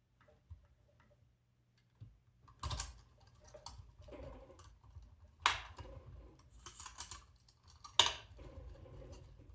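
Hands handling small plastic robot-kit parts and cables: three sharp clicks or knocks, about 3, 5.5 and 8 seconds in, with rustling in between.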